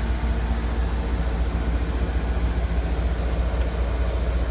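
Third-generation Toyota 4Runner's freshly swapped-in engine idling steadily. It idles a little high because it is running without its airbox.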